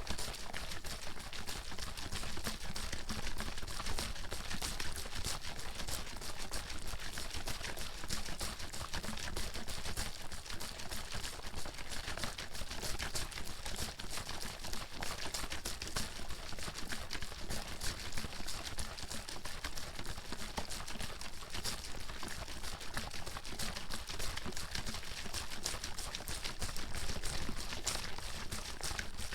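Water bottle being shaken continuously, the water sloshing and clattering inside in a rapid, even rhythm without pauses.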